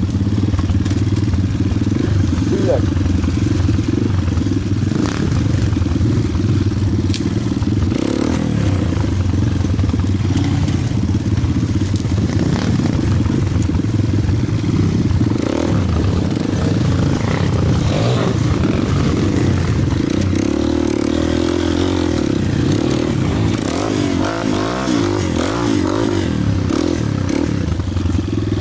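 Pit bike engine running continuously during off-road enduro riding, its revs rising and falling, especially in the second half.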